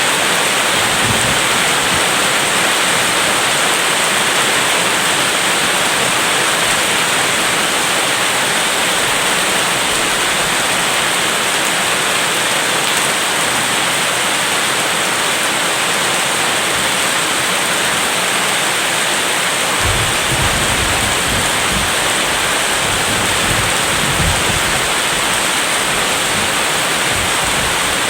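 Steady heavy rain hissing throughout, with a low rumble of distant thunder starting about twenty seconds in and lasting several seconds.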